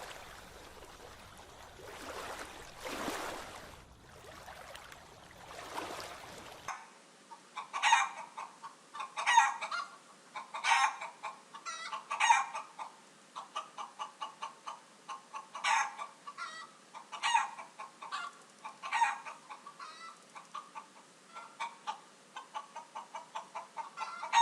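Wind and water rushing in gusts, then after a sudden cut a bird calling loudly about every second and a half, with quick softer chatter between the calls.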